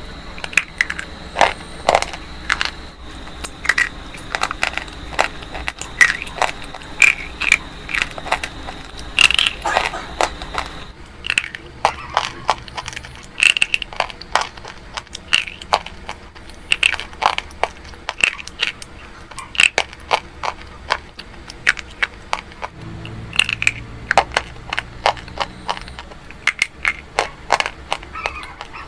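Something brittle being crushed, giving dense, irregular crunching and crackling, louder for about the first ten seconds and softer after that.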